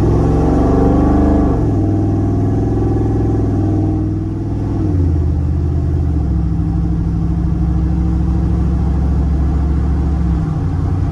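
2014 Ford Coyote 5.0-litre V8, heard from inside the cab, accelerating through the gears of its six-speed automatic. The pitch rises, drops at an upshift about a second and a half in, rises again and drops at a second upshift about five seconds in, then settles into a steady low cruise in top gear.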